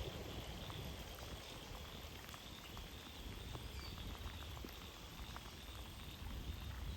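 Steady rain, with many individual drops pattering close by over a low rumble.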